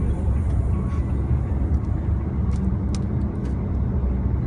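Steady low rumble of a moving car's engine and road noise, heard from inside the cabin, with a few faint ticks in the middle.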